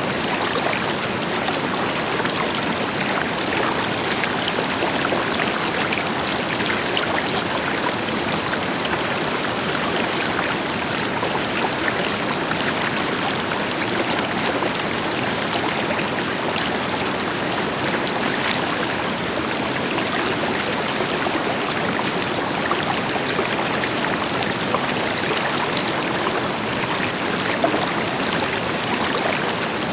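River water flowing and splashing over rocks in a steady rush, with the deeper hiss of a waterfall behind it.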